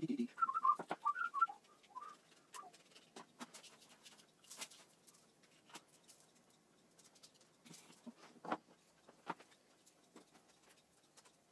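Light clicks and taps of wooden sticks being handled and slid onto a bamboo skewer, with a brief run of short high squeaky chirps in the first two seconds.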